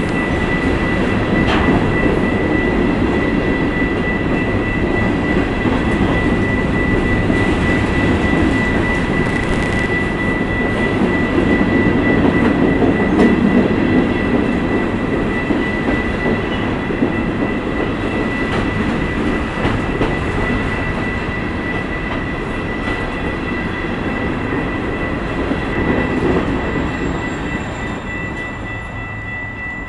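Empty covered hopper cars of a freight train rolling past with a steady rumble and a constant high-pitched tone, the sound easing off over the last few seconds.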